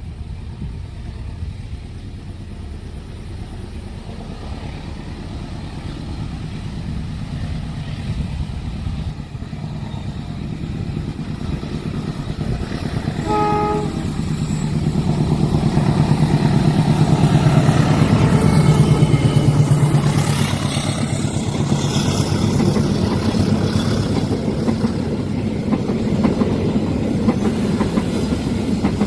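A train approaching and passing on a curve, its rumble building steadily. The locomotive's horn gives one short blast about halfway through, then the engine drone peaks as it goes by and the wheels clack over the rail joints.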